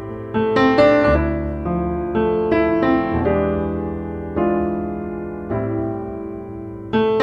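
Background piano music: notes and chords struck one after another, each dying away.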